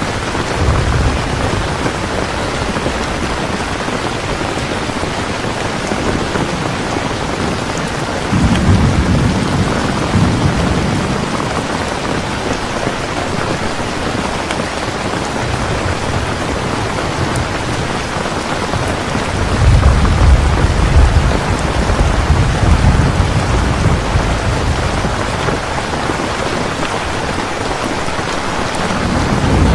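Heavy, steady rain with thunder rumbling low beneath it, the rumbles swelling about eight seconds in and again, longest and loudest, around twenty seconds in.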